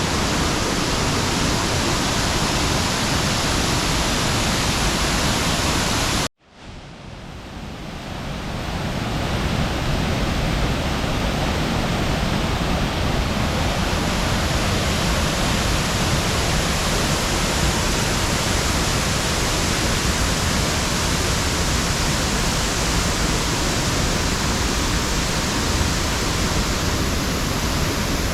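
Steady rush of a waterfall. About six seconds in, the sound cuts out abruptly and fades back in over the next few seconds.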